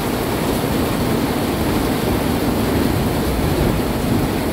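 Heavy rain pouring down in a steady, even hiss, with a low rumble underneath.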